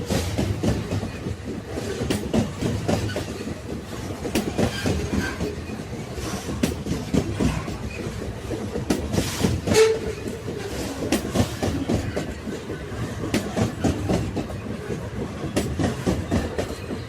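Railway carriages rolling along the track: a steady rumble with the clickety-clack of wheels over rail joints, and one louder clank about ten seconds in.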